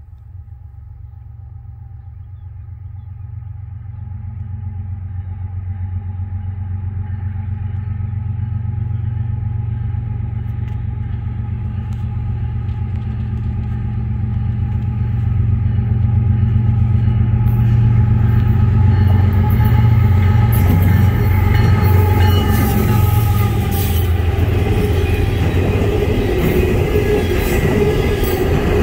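Norfolk Southern ES44AC diesel locomotive leading an empty coal train: a low engine rumble with a few steady tones grows steadily louder as it approaches, and the locomotives pass about twenty seconds in. The empty coal cars then roll by with loud wheel-on-rail noise and clanking.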